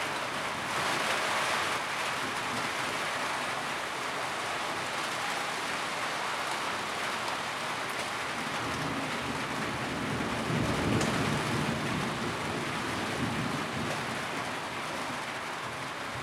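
Steady rain falling on a tin roof, an even patter of drops, with a low rumble swelling up through the middle.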